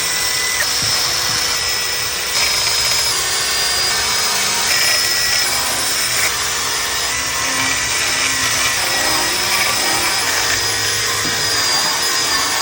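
Cordless power tool running continuously as it scrubs the rusty, grimy steel cooktop of a Blackstone griddle to clean it down.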